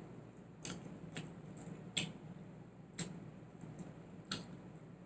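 Close-miked eating sounds: chewing with about five sharp, wet mouth clicks and smacks at uneven intervals, the loudest just under a second in.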